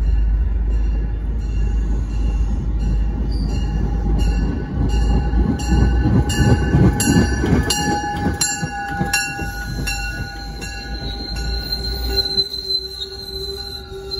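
Diesel commuter train pulling in alongside the platform: a heavy rumble and wheel noise build as the train passes close by, with a ringing strike about every half second. Near the end the rumble drops and a steady high squeal sets in as the train brakes toward a stop.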